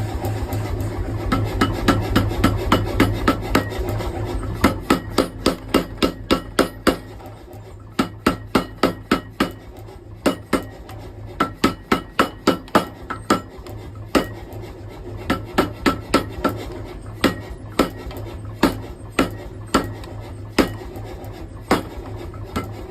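Hammer blows on hot steel at an anvil while forging axe blanks: runs of strikes about three a second with short pauses between runs, each blow ringing briefly. A steady low hum runs underneath and is strongest in the first few seconds.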